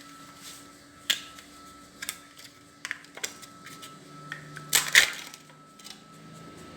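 Plastic yogurt container being opened by hand: a series of small clicks and taps, with a louder snap about five seconds in.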